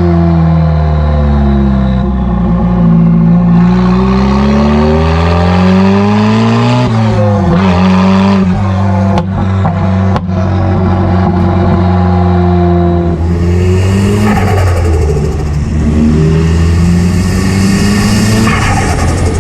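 Straight-piped Nissan S15 200SX's turbocharged SR20 four-cylinder engine under way, its note climbing and falling with the revs. There are two sharp cracks about nine and ten seconds in, and a loud rushing hiss joins the engine note in the last third.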